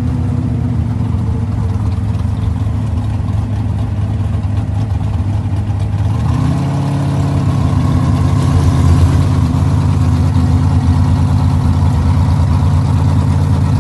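Car engine running steadily, heard from inside the cabin while driving; its note steps up slightly about six seconds in as the car speeds up.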